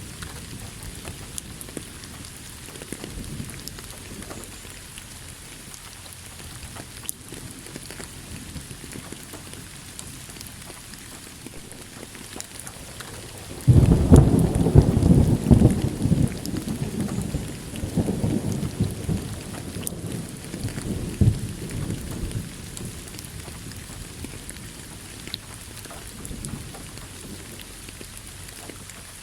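Steady rain with a thunderclap about halfway through: a sudden loud low rumble that swells again and rolls on for several seconds before fading back under the rain.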